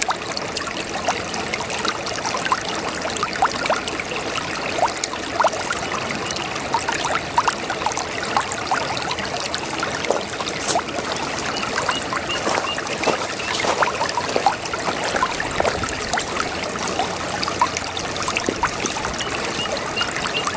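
Babbling brook: water trickling and bubbling in a steady rush, dotted with many small gurgles and plinks.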